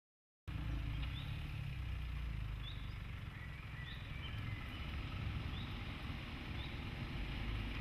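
Mitsubishi Outlander 2.2-litre diesel engine running low and steady as the SUV crawls slowly off-road, starting abruptly about half a second in. Birds chirp briefly every second or so.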